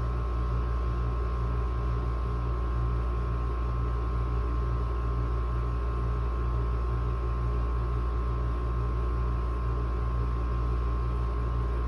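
Air conditioner running steadily: a constant low hum with a fan's even rushing and a faint steady whine.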